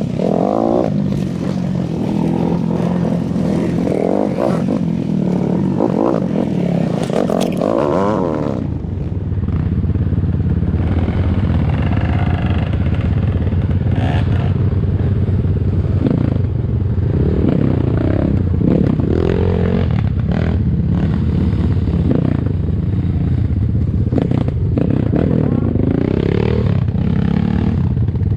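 ATAKI DR 250 enduro motorcycle's engine running under way, its pitch rising and falling repeatedly as the throttle is opened and closed, with some clattering. About eight seconds in the sound turns duller as the higher sounds fall away.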